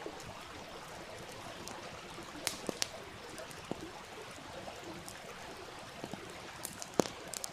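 A wood campfire crackling, with a few sharp pops (the loudest near the end), over the steady rushing of a stream.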